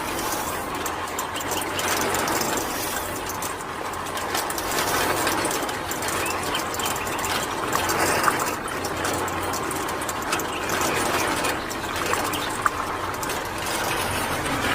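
Water gushing steadily, as from a small water pump, with a few faint clicks.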